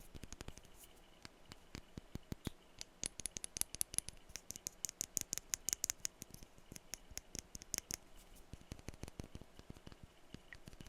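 Rapid tapping on small glass perfume bottles: a dense run of quick clicks, with a high glassy ring over them from about three to eight seconds in.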